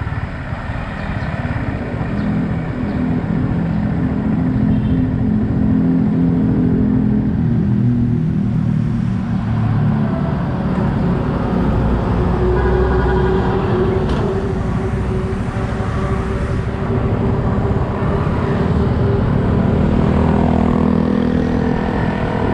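Yamaha XSR 155's single-cylinder engine running under way, its pitch rising and falling with the throttle, with wind rushing over the microphone.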